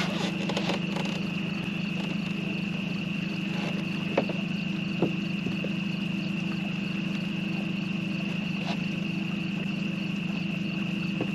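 A steady, unbroken chorus of insects sounding high over a steady low hum, with a few light clicks and knocks of handling now and then.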